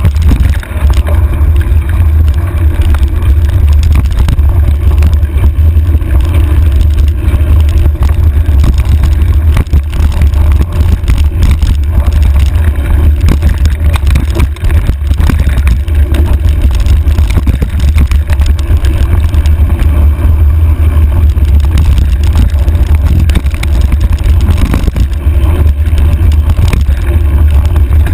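Wind buffeting a handlebar-mounted camera's microphone on a mountain bike riding a rough trail: a loud, steady low rumble, with frequent small clicks and knocks from the bike rattling over the ground.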